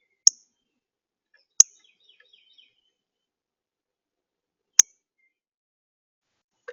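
Small birds at a feeder: three short, sharp chip notes, the second and third about a second and three seconds after the first, with faint high twittering in between.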